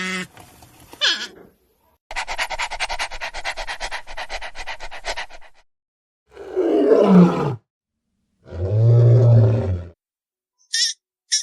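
A string of separate animal calls cut one after another: a fast, evenly pulsed rattling call lasting about three seconds, then a call that falls in pitch, then a low steady roar-like call, and two short high chirps near the end.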